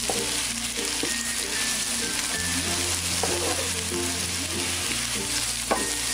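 Potato slices and onions sizzling in oil in a non-stick frying pan while a wooden spatula stirs in the spice mix, with a short knock of the spatula near the end. Light background music plays underneath.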